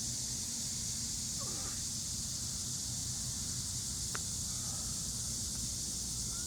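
Cicadas droning in a steady, high-pitched chorus, over a low steady rumble. A single sharp click comes about four seconds in.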